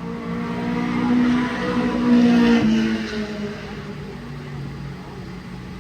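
Race car engine running at speed and passing by: it grows louder, drops in pitch as it goes past about two and a half seconds in, then fades away.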